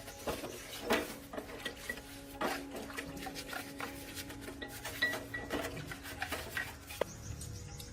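Irregular metallic clinks and knocks of tools and parts being handled during axle repair work, over a steady hum that stops about six seconds in. A single sharp knock comes near the end.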